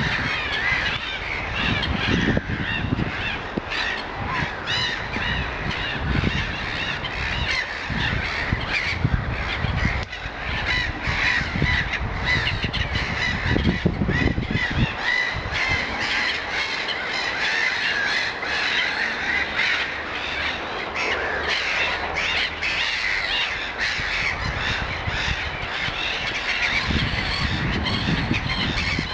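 Many birds calling at once in a dense, continuous chorus, with crow-like cawing among the calls. Irregular low rumbles come and go underneath, strongest in the first half and near the end.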